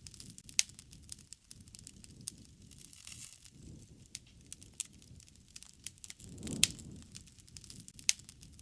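Wood fire burning: irregular sharp crackles and pops over a low rumble of the flames, with two louder pops, the stronger one about six and a half seconds in.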